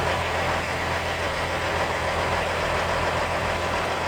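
Heavy truck's diesel engine idling steadily, a constant low hum with a wash of mechanical noise over it.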